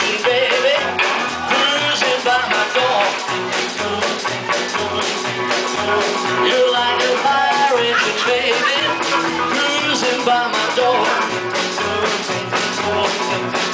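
Live rock and roll band playing an instrumental passage: a wavering lead melody over a stepping bass line and a steady drum beat.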